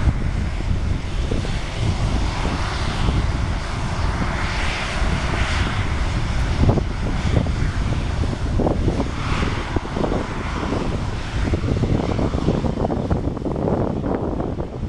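Airliner engines running, heard over gusty wind buffeting the microphone.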